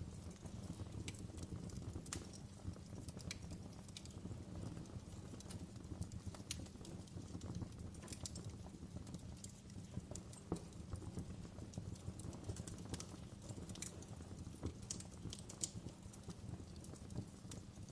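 Fire crackling in a fireplace: irregular sharp pops and crackles, several a second at times, over a low steady rumble of the flames.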